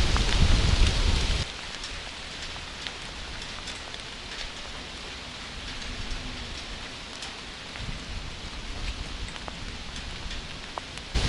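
Steady rain with scattered drops ticking close by. A loud low rumble of thunder or wind fills the first second and a half and cuts off abruptly, then returns just as suddenly near the end.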